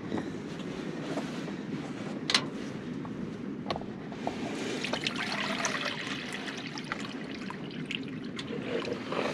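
Warm water being poured from a container into an animal's water bowl, trickling, heaviest a little past the middle. One sharp click a little after two seconds in.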